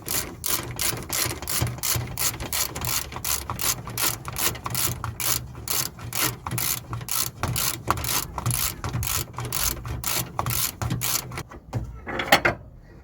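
Socket ratchet clicking steadily, about four clicks a second, as it spins off the bottom 17 mm nut of a worn anti-roll bar drop link. The clicking stops near the end, followed by a single louder clank.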